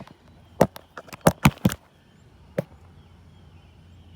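A quick run of about seven sharp clicks and knocks within about a second, then one more knock.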